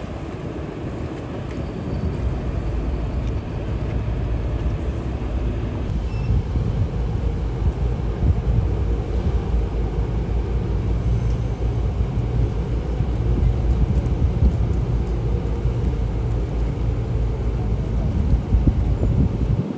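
A heavy engine running steadily with a low rumble, typical of a river car ferry under way.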